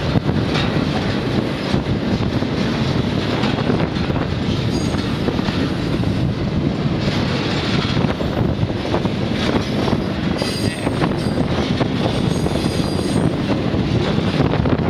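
Intermodal freight train running, heard from the end platform of a well car: a steady rumble and rattle of steel wheels on rail with scattered clicks. Brief high wheel squeals come through a few times.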